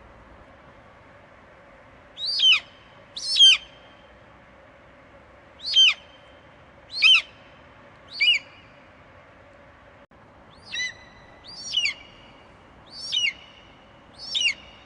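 Eagle screeching: nine short, piercing calls, each a quick downward-sliding screech, spaced irregularly about a second apart after the first two seconds, over a faint steady hiss.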